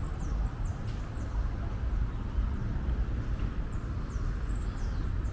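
Outdoor ambience: a steady low rumble with a few clusters of thin, high, falling chirps from small birds, near the start and again about four seconds in.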